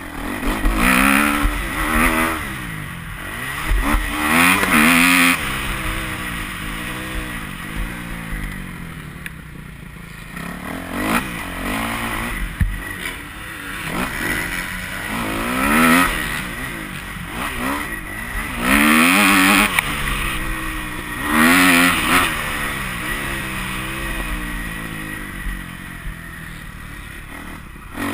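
Kawasaki KX250F four-stroke single-cylinder motocross bike being ridden hard, its engine revving up in loud bursts every few seconds and dropping off between them, the pitch climbing and falling again and again.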